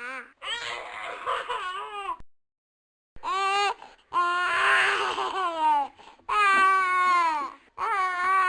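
Baby crying: a wavering cry, a short break of silence about two seconds in, then a series of long wails that drop in pitch at their ends.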